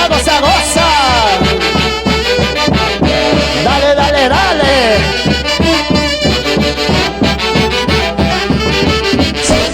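Live Peruvian dance orchestra playing an instrumental passage: brass melody with gliding lines over a steady beat.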